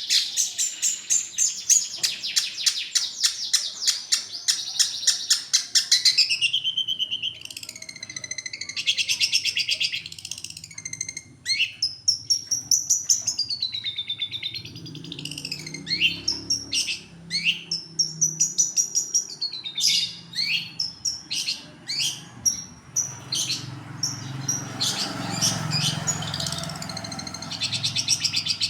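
Long-tailed shrike (pentet) singing: a fast, rattling chatter for about the first six seconds, then a varied run of whistled notes sliding up and down, broken by sharp clicks.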